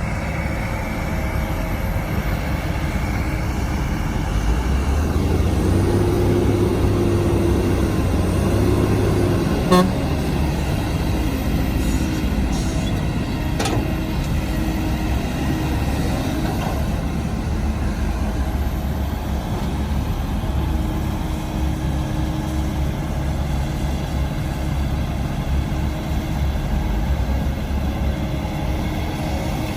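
Heavy diesel earthmoving machinery running steadily. The engine works harder from about five to nine seconds in. There is a sharp knock near ten seconds, then a few light clanks shortly after.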